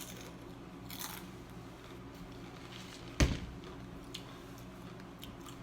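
A steady low hum with one sharp knock about three seconds in, and a few faint clicks.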